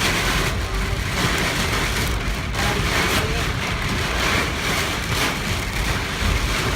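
Storm winds and rain buffeting a moving car: a continuous low rumble under a hissing wash that surges and eases in gusts every second or so.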